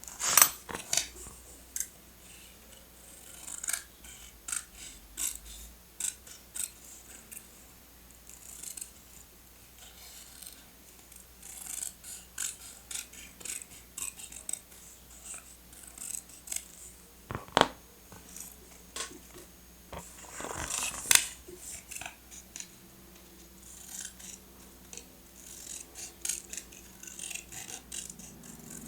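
Paper and stationery being handled close up: irregular crisp rustles, taps and short snips, with a few sharper louder strokes.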